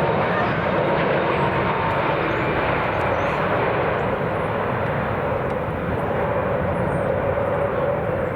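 Jet airliner engines running loud and steady, a dense roar with no break.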